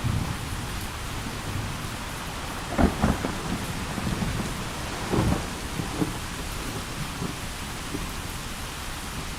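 Heavy steady rain with thunder rumbling and crackling, loudest in a sharp clap about three seconds in and again about five seconds in.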